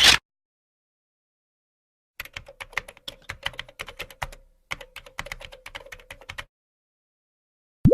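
Typing on a computer keyboard: a rapid, uneven run of key clicks lasting about four seconds, with a brief pause in the middle. It is preceded by the tail of a short loud noise burst at the very start.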